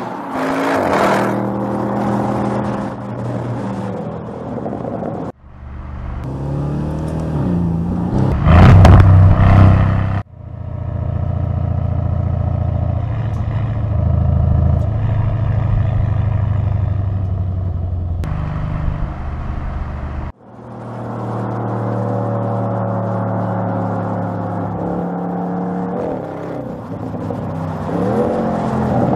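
2020 Audi RS6 Avant's 4.0 TFSI twin-turbo V8 under way in a run of edited takes, mostly a steady cruising note. The engine note climbs as it accelerates about eight seconds in, the loudest moment, and again near the end. The sound cuts abruptly between takes several times.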